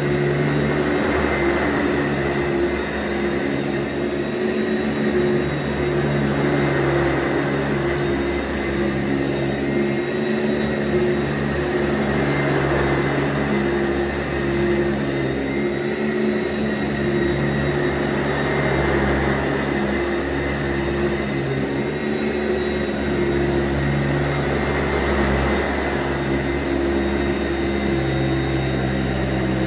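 Sanitaire SC684G upright vacuum running on carpet, its steady motor hum joined by airflow and brush noise that swells and eases every few seconds as it is pushed back and forth.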